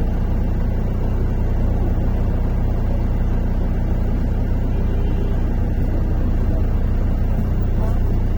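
Steady low rumble of a MAZ-103 city bus under way, heard from inside the passenger cabin: engine and road noise.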